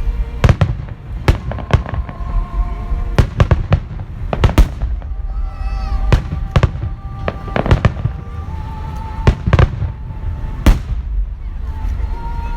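Aerial fireworks shells bursting in a quick, irregular run of loud bangs, about fifteen in all, over a steady low rumble. Music plays underneath.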